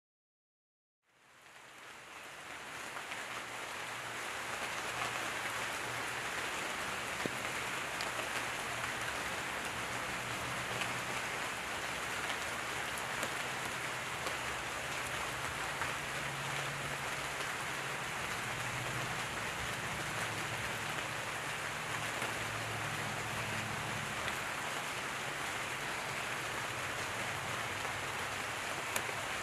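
Gentle rain falling steadily, with scattered sharper drip ticks. The sound fades in from silence about a second in.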